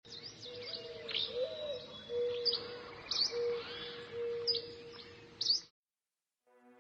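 Birds chirping and calling, a series of short sharp chirps and whistles that cut off suddenly about five and a half seconds in.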